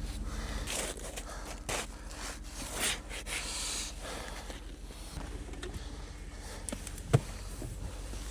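Faint rustling and handling noises over a low steady hum, with a single sharp click about seven seconds in.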